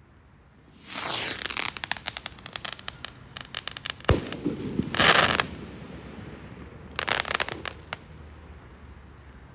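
Fireworks going off: a rapid run of crackling pops starting about a second in, a single sharp bang near the middle followed by a brief loud hiss, then another short burst of crackling towards the end.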